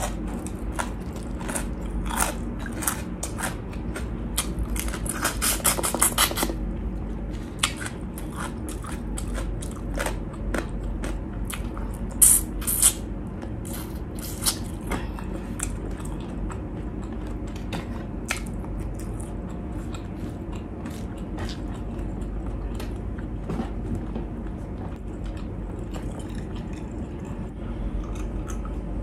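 A person crunching and chewing crispy food close to the microphone. The crunching is dense for the first six seconds or so, then thins out to sparser bites, with two loud crunches about twelve seconds in.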